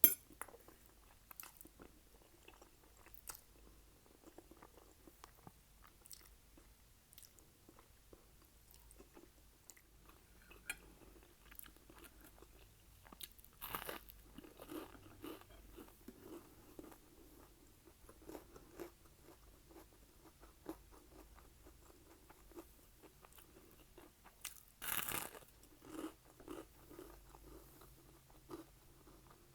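Close-miked mouth sounds of a person eating: two loud crunchy bites into over-toasted garlic bread, about 14 and 25 seconds in, each followed by a run of chewing. Soft wet mouth clicks fall in between, and there is one sharp click at the very start.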